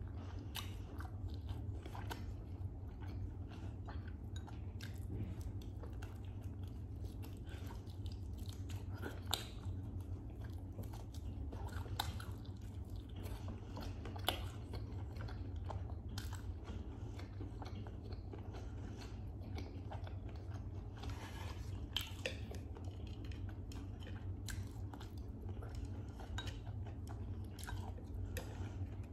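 Close-miked chewing and biting of roast chicken and cooked vegetables, wet mouth sounds broken by many short crisp clicks and occasional crunches, over a steady low hum.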